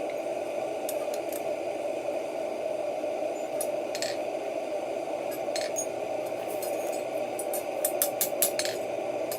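Forge running with a steady rushing noise, with scattered light metallic clinks of tools and stock that come in a quick run near the end.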